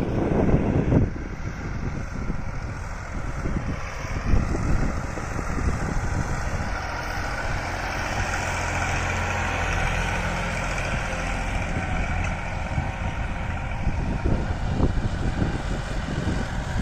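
Massey Ferguson 9500 tractor's diesel engine running steadily at about 1700 rpm while pulling a nine-tine cultivator.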